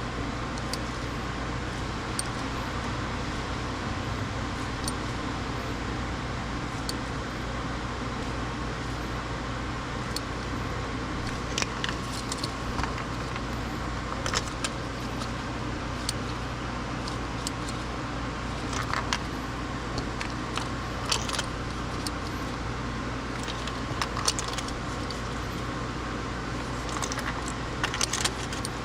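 Light metallic clinks and jingles of hand tools and small metal parts being handled, coming every second or few in the second half, over a steady low hum.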